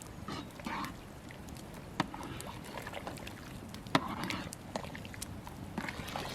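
Water sloshing and splashing in short strokes, with two sharp knocks about two seconds apart.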